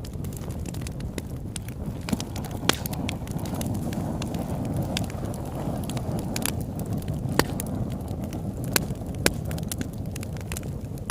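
Campfire burning: wood crackling with many scattered sharp pops, a few of them loud, over a steady low rumble of the flames.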